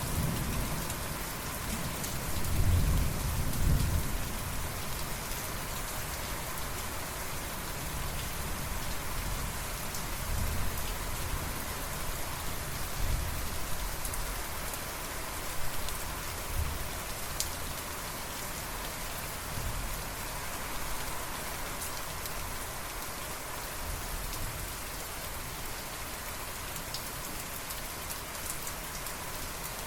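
Steady rain hissing, with a low rumble of thunder loudest a few seconds in, then fainter low rumbles now and then.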